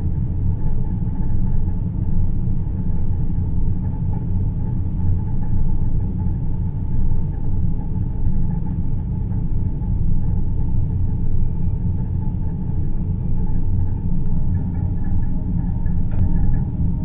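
Space-ambience sleep soundscape: a steady, deep rumbling noise drone, strongest in the low bass, with faint steady tones above it and a couple of faint ticks near the end.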